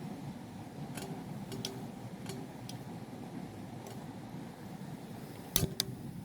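Scattered light clicks or taps, with a sharper double click about five and a half seconds in, over a steady low background rumble.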